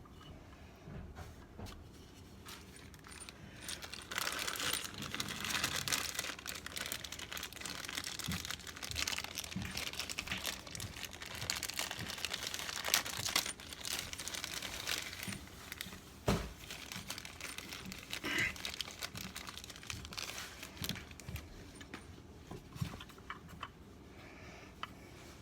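Plastic packaging crinkling and rustling as a new furnace gas valve is unwrapped and handled, with scattered clicks and a sharp knock.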